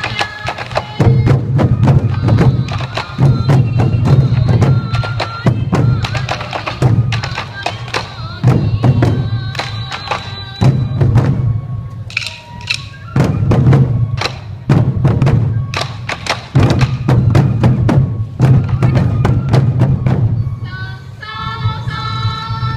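Sansa odori festival music: many taiko drums beaten in a fast, driving rhythm with heavy low booms in recurring groups, and shinobue bamboo flutes playing a high melody over them.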